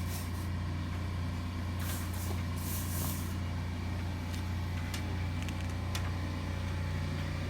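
A motor running with a steady low drone. Short bursts of hissing come about two to three seconds in, and a few light clicks follow.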